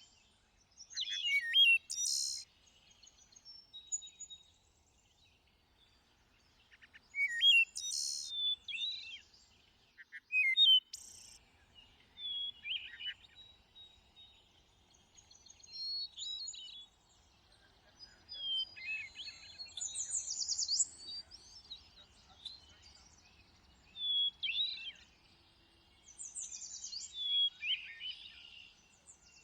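A thrush singing short phrases every few seconds. Each is a few clear, fluty notes, often ending in a high, buzzy trill.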